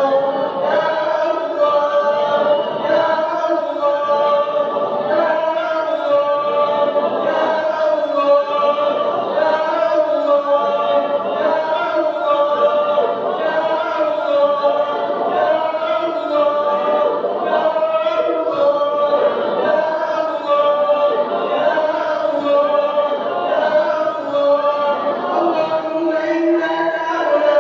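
Melodic chanted Arabic prayer recitation: a voice drawing out long notes continuously, without a break.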